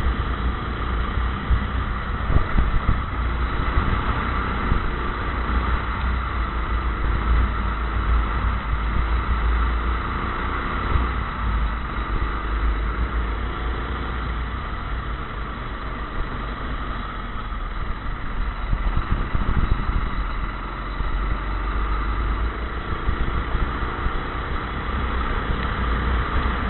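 Go-kart engine running continuously, its pitch rising and falling again and again as it speeds up and slows through the corners, over a steady low rumble.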